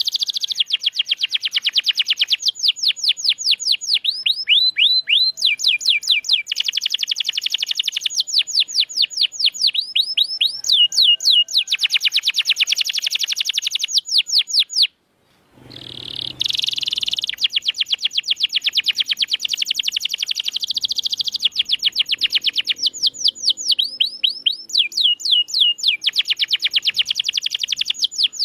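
Domestic canary singing in long fast trills and rolls, runs of rapid repeated sweeping notes a second or two each, one after another. The song cuts out for a moment about halfway through, then carries on.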